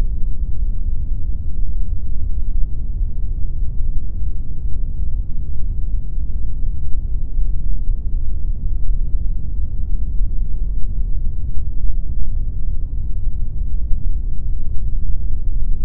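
Synthesized pink noise: a steady, unchanging hiss heavily weighted toward the low end, so it sounds deep and muffled.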